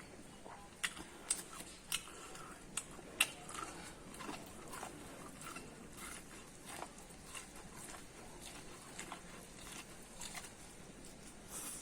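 Close-up mouth sounds of biting and chewing corn: a run of sharp crunchy clicks, loudest and most frequent in the first few seconds, then softer chewing clicks.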